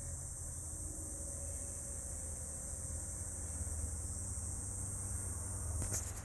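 USB-powered portable six-blade ceiling fan running steadily: a low hum under a constant high hiss, with a couple of brief clicks near the end.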